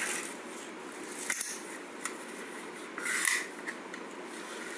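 Small plastic toy cars being handled and run across a surface, making short rasping, scraping noises, three brief bursts.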